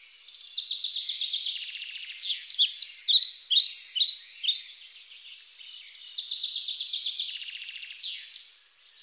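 Several small songbirds singing at once: fast trills and quick chirps overlapping, with no low sounds beneath them, loudest from about two to four and a half seconds in.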